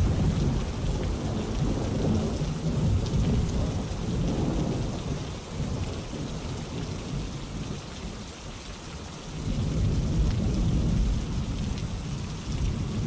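Steady rainfall with low rolling thunder that swells and fades, easing about halfway through and building again near the end.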